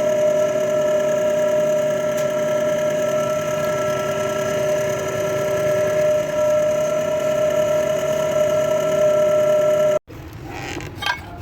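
Isuzu mu-X diesel engine running steadily at a constant speed, with a steady high-pitched whine over the engine noise.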